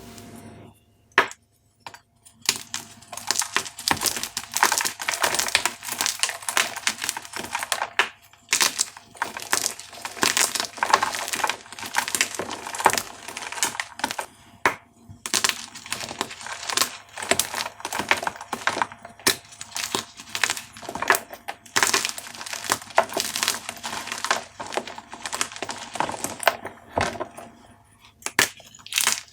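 Dyed gym chalk cubes being crushed, a dense, irregular run of crunches and cracks. A couple of single snaps come first.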